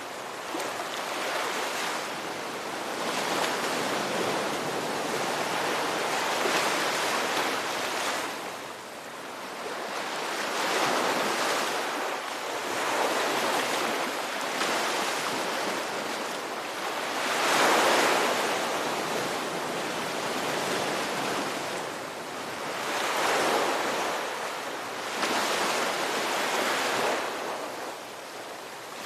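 Ocean surf: waves breaking and washing in, a continuous rushing that swells and eases every few seconds, the biggest wave about two-thirds of the way through.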